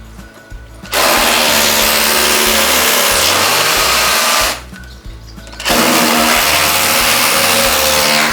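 A power tool running in two bursts of about three and a half seconds each, with a short pause between them.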